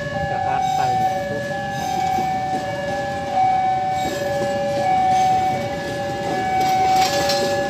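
Railway level-crossing warning alarm sounding, two tones taking turns, over the low rumble of a train.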